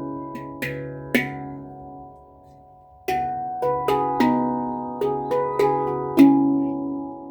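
Celestial Sound C# Celtic Minor handpan played with the hands: single struck notes ringing on, a few notes, a brief pause, then a quicker run of about eight notes from about three seconds in, left to ring and fade near the end.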